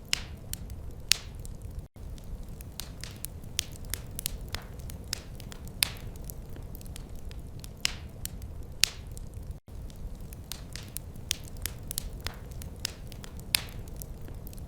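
Wood fire crackling: irregular sharp pops and snaps over a steady low rumble, cutting out for an instant twice.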